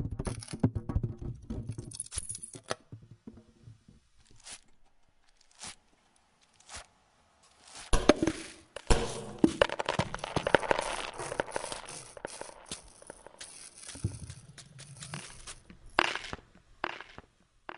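Irregular crackling and crumpling noises with many sharp clicks: dense at first, thinning to scattered separate ticks for a few seconds, then dense again from about eight seconds in.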